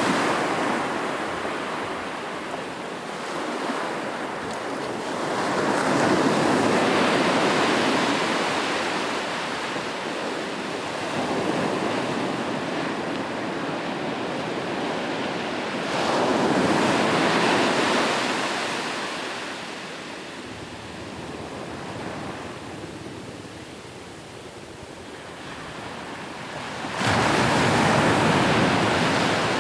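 Sea waves breaking on a shore, the surf swelling and fading in repeated surges several seconds apart, one rising sharply near the end.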